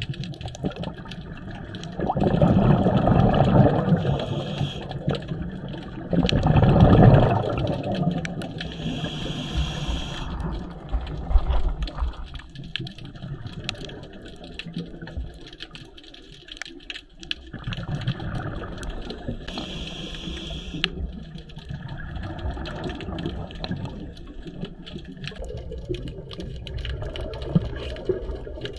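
Scuba diver breathing through a regulator underwater: the hiss of the demand valve on each inhale, and bursts of exhaled bubbles rumbling past. Two loud bubble bursts come a few seconds in, with shorter hisses between and later.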